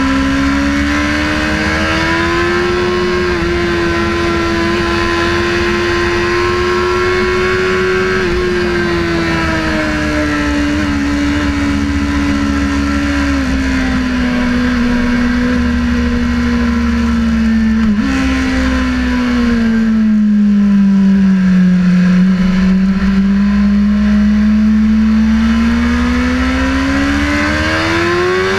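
Sportbike engine running hard, its pitch holding high with small steps, jumping sharply about two-thirds of the way in, dipping, then climbing steadily as it accelerates near the end.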